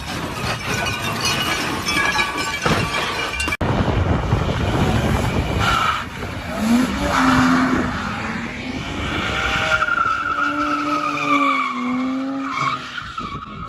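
Car noise with tyres squealing and skidding, the squeal running as a long, slowly falling tone in the second half. An abrupt cut about three and a half seconds in joins two different clips.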